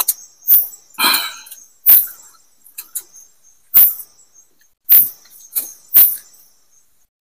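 Close-up eating mouth sounds: irregular sharp lip smacks and chewing clicks, about ten in all, with a longer, fuller sound about a second in.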